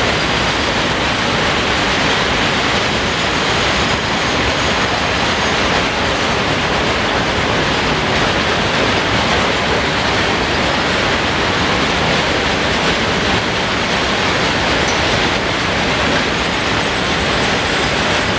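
Loaded freight train of open wagons heaped with coal rolling past: a steady noise of wheels running on the rails.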